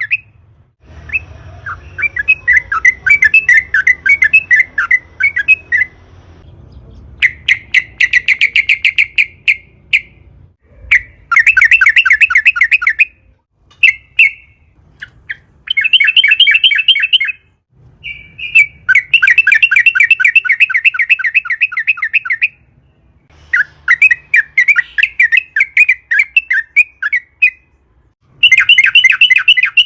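Yellow-vented bulbul (trucukan) singing in long rolling phrases: bursts of fast, rattling chirps, each phrase one to three seconds long, repeated about a dozen times with short pauses between.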